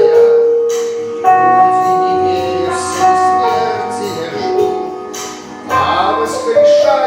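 A recorded song playing: a melody sung in long held notes over an accompaniment with bright bell-like chimes.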